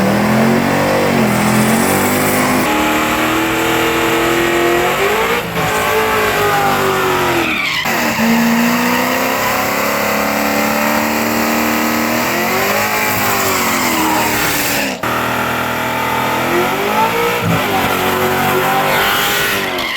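Supercharged C7 Corvette Z06 V8 race engine under hard acceleration, its pitch climbing and dropping again and again through the gears, with several abrupt breaks.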